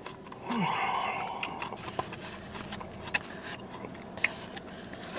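A person chewing a mouthful of cheesesteak with mouth sounds. About half a second in there is a short breathy exhale with a brief hum, then scattered small wet clicks and smacks.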